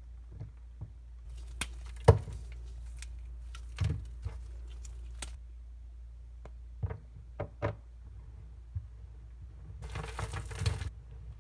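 Dry soap cracking and crumbling under pressure: scattered sharp cracks, the loudest about two seconds in, with patches of crackling and a burst of dense crumbling near the end.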